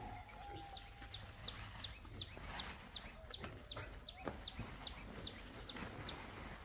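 A bird peeping a steady run of short, high, falling notes, about three a second, that stops about six seconds in. A couple of light knocks sound under it.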